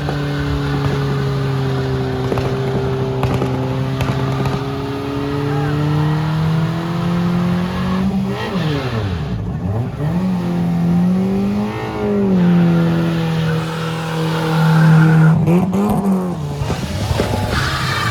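Car engine running and being revved, its pitch holding steady at first, then rising and falling several times in the second half.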